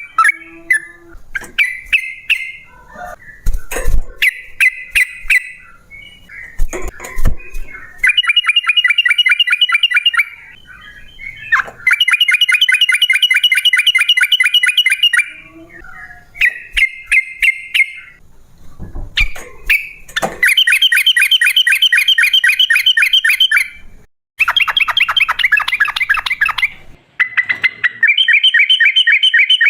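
Yellow-vented bulbul (trucukan) singing long, rapid trilled runs of repeated notes, broken by short chirps. A few low knocks fall in the gaps between runs.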